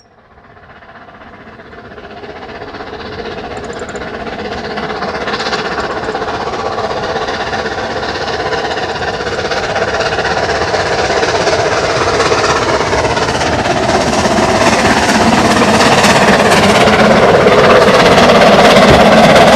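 Narrow-gauge steam locomotive working a train, its rapid exhaust beats and running noise rising from silence and growing steadily louder as it approaches.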